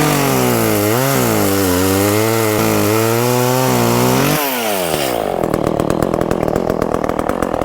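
Two-stroke chainsaw with a freshly sharpened chain running at full throttle through wood, its engine pitch dipping and recovering under the load of the cut. About four and a half seconds in the throttle is released and the engine drops to a rapid, uneven idle.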